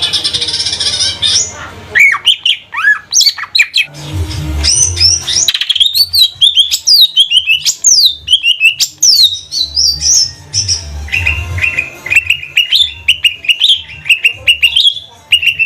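Cucak ijo (greater green leafbird) singing loudly: a harsh rasping burst at the start, then a fast, varied run of chirps and sharply falling whistled notes. Low thuds come and go underneath.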